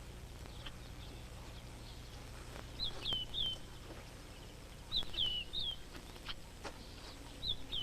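A bird calling with short, high chirps that slide down in pitch, in groups of two or three spaced a couple of seconds apart, over faint steady background hum.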